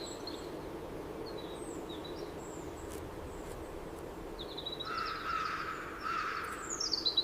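Quiet forest ambience: a steady low rushing noise with scattered short, high bird chirps, and two longer, lower bird calls about five and six seconds in.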